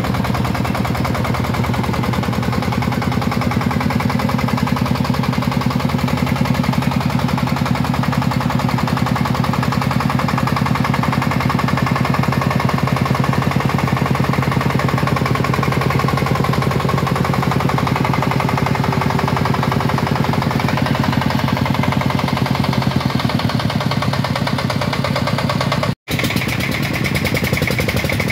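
Shifeng 40 farm truck's diesel engine running steadily with a fast, even chugging beat, broken by a brief cut near the end.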